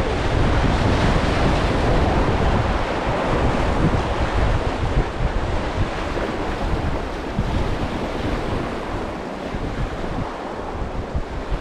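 Whitewater rushing around a raft in a river rapid, with wind buffeting the microphone; the rush eases a little in the second half.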